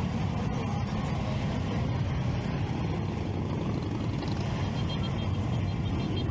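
Triumph Street Triple 675's inline-three engine running steadily, heard from the rider's seat together with road noise.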